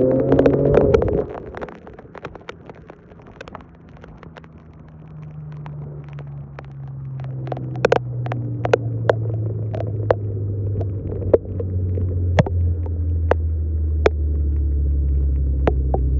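Dodge 350 truck's diesel engine revving, dropping away about a second in, then a steady low drone that grows slowly louder and slightly lower in pitch. Scattered sharp clicks run through it.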